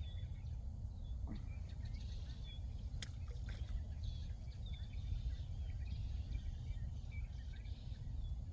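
Outdoor evening ambience: birds chirping over a steady low rumble, with a single sharp click about three seconds in.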